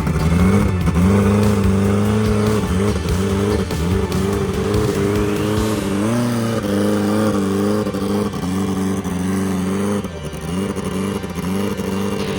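Car engine running with a steady pitched note, blipped up and back down about halfway through and again near the end.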